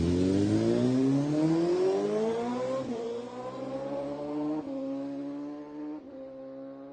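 A racing superbike's engine accelerating hard and moving away. Its pitch climbs through each gear and drops at three upshifts, and the sound grows fainter.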